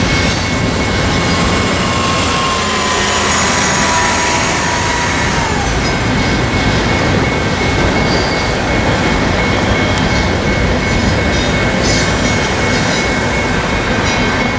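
Double-stack intermodal freight train rolling through a grade crossing, a steady loud rumble of wheels on rail, with a thin high tone sliding down about five seconds in.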